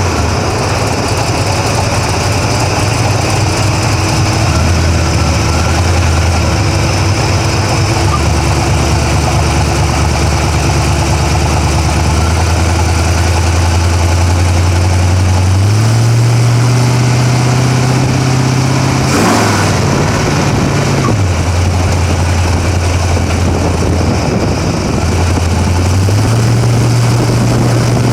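Drag-racing Camaro engine idling loud and lumpy, heard close up from the engine bay, its idle speed stepping up and down a few times. A single short crack about two thirds of the way through.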